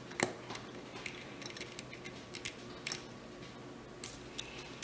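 Faint, scattered small clicks and taps from a plastic battery door being fitted back onto the FlashBox lockbox and its screw being driven in with a small Phillips screwdriver.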